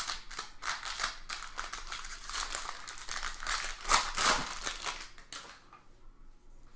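Plastic wrapper of a 2017 Bowman Draft baseball card pack crinkling and tearing open, with the cards rustling as they are handled. The rustling dies away about five and a half seconds in.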